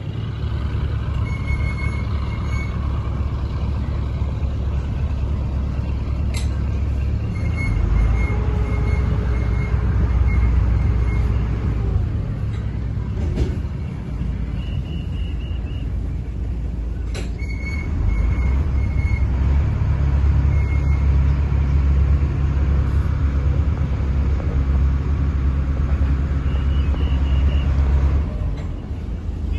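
Houseboat engine running steadily, a low drone that swells louder for a few seconds about 8 s in and again through most of the second half. Scattered short high chirps and a few sharp clicks sit over it.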